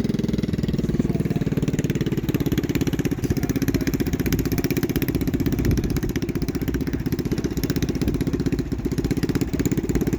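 Cyclekart's small engine running steadily, a rapid, even chugging of firing pulses with little change in speed.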